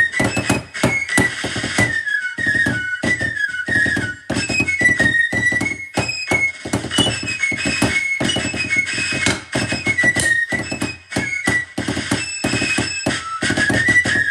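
Snare drum played in a rudimental, fife-and-drum style with quick, dense strokes, under a high fife melody that steps up and down.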